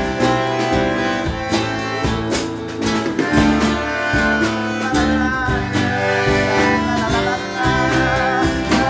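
Live band playing an instrumental passage between sung verses: plucked guitar and tiple strumming over bass and drum beats, with held wavering melody notes coming in about halfway through.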